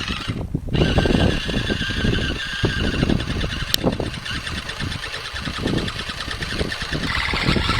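High-pitched whine of the electric drive motor and gearbox of a toy RC wheel loader as it drives, over rough low crackling and knocking noise. The whine drops out briefly just after the start, then runs steadily.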